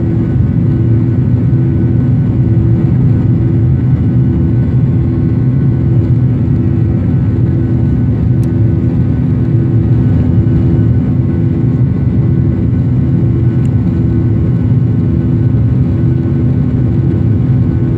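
Airliner cabin noise in the climb after takeoff: the steady low roar of the engines and airflow, with a hum that throbs about once a second.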